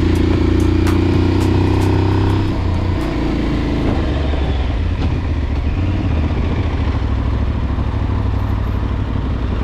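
Aprilia Tuareg 660 parallel-twin motorcycle engine running on the move; its steady note drops about two and a half seconds in and then runs at a lower pitch.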